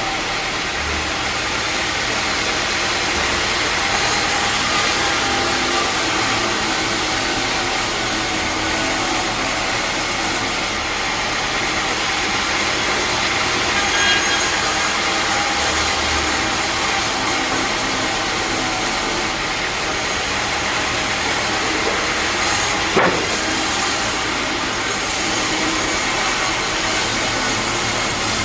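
Sawmill bandsaw running steadily with an even mechanical noise, with one sharp knock about three-quarters of the way through.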